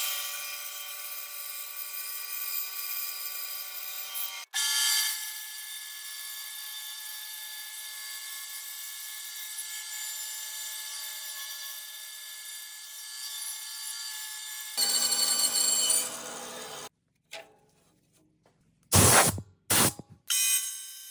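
Power tool motor whining steadily while working wood, in several edited takes: the sound breaks off about four seconds in and changes character near the end, where it comes in short separate bursts.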